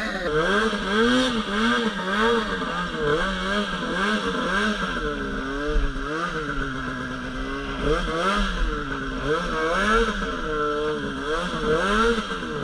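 Two-stroke Polaris RMK 800 snowmobile engine revving up and down over and over, a little less than once a second, as the throttle is worked.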